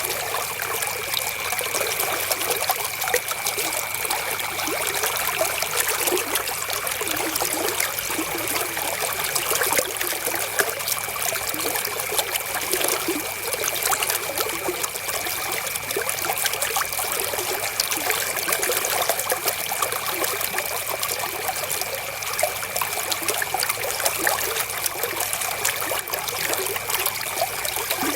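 River water flowing, a steady trickling babble that never lets up.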